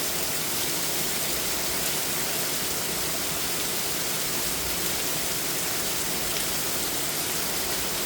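Torrential rain pouring straight down in a steady, dense roar of water with no let-up, like a waterfall.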